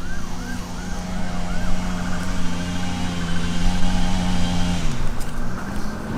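Honeybees buzzing close by in a steady, even-pitched hum that drops away in pitch near the end as the bees move off. A quick series of about five short chirps comes in the first second and a half.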